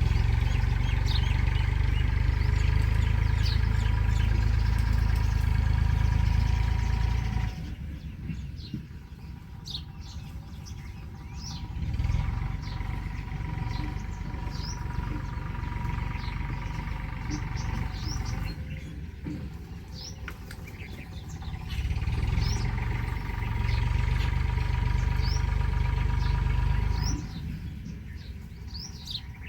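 Small birds chirping in short, high notes throughout, over a low rumble with a steady hum that swells up and dies away three times.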